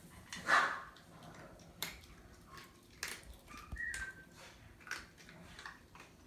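Dog sounds: a short yip or bark about half a second in, a brief high whine a little before the middle, and scattered small clicks and knocks.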